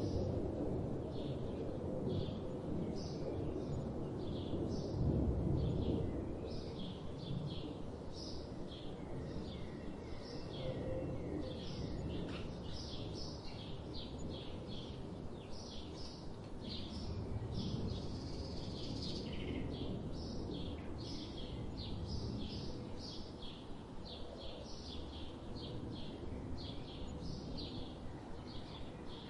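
Forest ambience: many birds chirping in short, rapid calls, over a steady low rumble that is strongest in the first few seconds.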